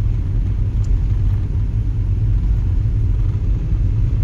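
Steady low rumble of a Volkswagen Jetta driving on a snowy road, heard from inside the car: tyre, road and engine noise.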